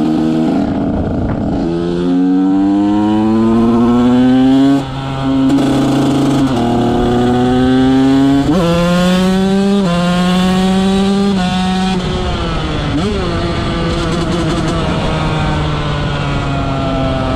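KTM 125 SX two-stroke motocross engine with an FMF exhaust, ridden hard: it revs up through several gears, its pitch rising and dropping back at each shift. About twelve seconds in it settles to a steadier, lower speed, with one short blip of the throttle.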